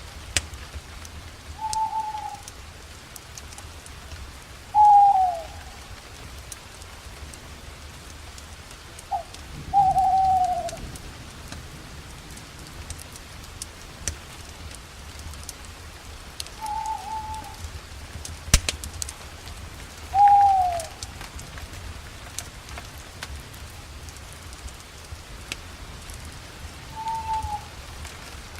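An owl hooting: six short single hoots a few seconds apart, several dropping in pitch at the end. Under it a campfire crackles with steady sharp pops and snaps.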